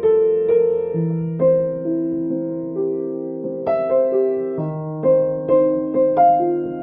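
Background piano music: a gentle melody of single notes and soft chords, each note struck and left to fade.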